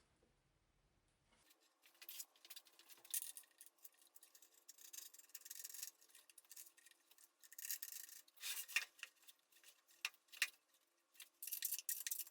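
Faint, intermittent scraping and rubbing in quick strokes, with a few sharper clicks about eight to ten seconds in.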